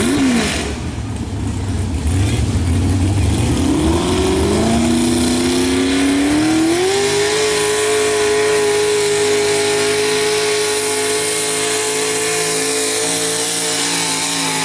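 Super stock two-wheel-drive pulling truck's engine revving up over a few seconds, then held steadily at high revs under load.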